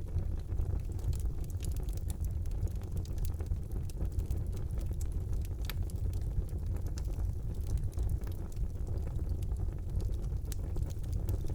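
Wood fire burning in a fireplace: a steady low rumble of flames with frequent small crackles and pops, one sharper pop about six seconds in.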